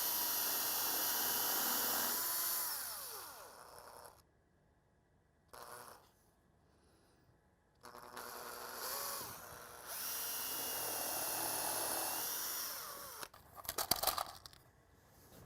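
Cordless drill running in two runs of a few seconds each, its motor winding down at the end of each run, followed near the end by a quick cluster of clicks.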